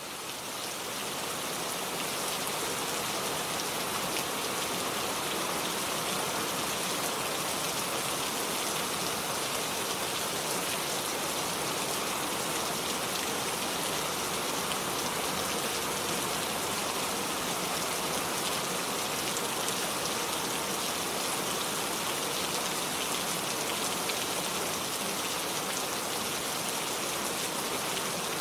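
Steady rain falling, an even hiss of many drops, fading in over the first couple of seconds and then holding level.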